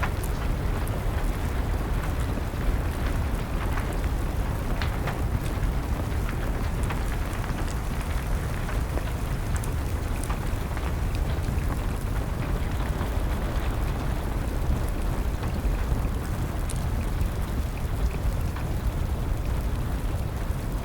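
Steady rain mixed with the scattered crackles and pops of a burning wood fire, over a constant low rumble.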